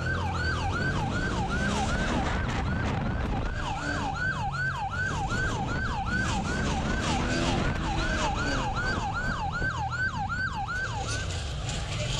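Police car siren on its rapid yelp setting, each wail sweeping up and down about four times a second, over the low rumble of the car driving. The siren cuts off near the end.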